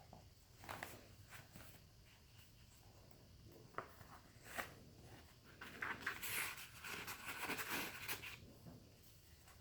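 Paper handling: pages of a handmade junk journal rustling and being turned, with a few light taps and a longer stretch of rustling from about six to eight seconds in.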